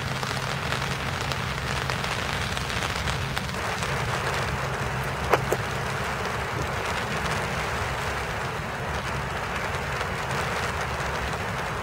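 Steady rain falling on a rose bush, an even hiss with individual drops ticking on the leaves. About five seconds in come two sharp knocks close together, the loudest sounds here.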